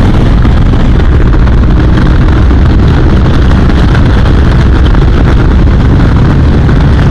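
BMW R 1250 RT motorcycle under way: its boxer-twin engine running steadily under a loud, heavy rumble of wind on the microphone.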